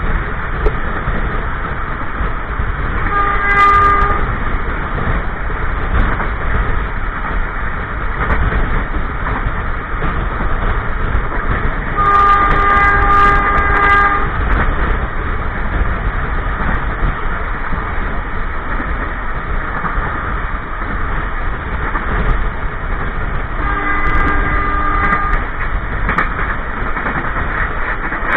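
Passenger train running on the rails, heard from inside the carriage toilet as steady loud wheel and track rumble. The locomotive's multi-tone horn sounds three times: a short blast about 3 seconds in, a longer one about 12 seconds in and another about 24 seconds in.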